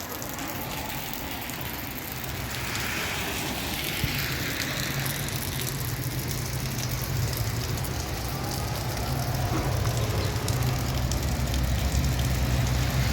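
Steady rain hiss mixed with a motor vehicle's low engine rumble, which grows gradually louder.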